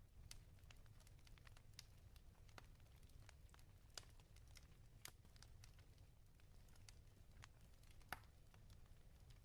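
Wood fire crackling in a fireplace: faint, irregular pops and snaps over a low steady rumble, with the sharpest pop about eight seconds in.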